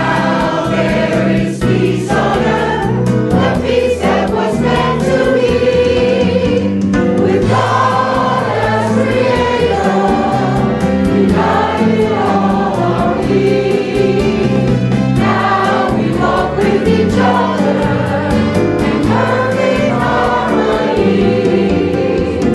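Many voices singing a hymn-like song together over instrumental accompaniment with a steady beat.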